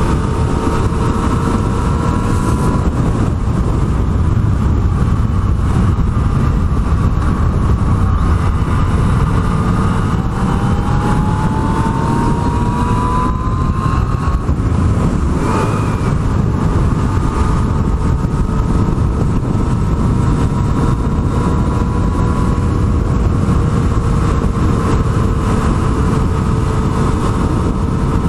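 Yamaha MT-09 inline three-cylinder engine running under way, heard through heavy wind noise on the rider's microphone. Near the middle the revs climb for a few seconds, then drop and settle to a steady pitch.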